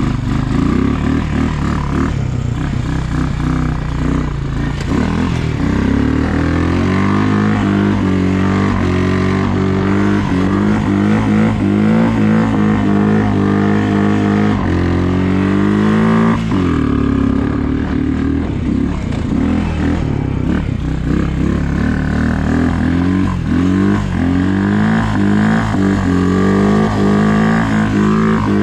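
Engine of a snow-plowing vehicle running continuously, its pitch rising and falling again and again as it speeds up and eases off. It drops sharply about sixteen seconds in, then climbs again.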